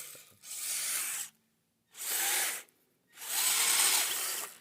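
Kyosho Blizzard RC snowcat's electric motor and tracks whirring in three short throttle bursts, spinning in deep snow. The snowcat is buried and not getting out.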